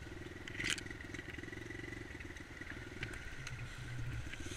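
Dirt bike engine idling steadily, with a sharp click about two-thirds of a second in and a few lighter ticks.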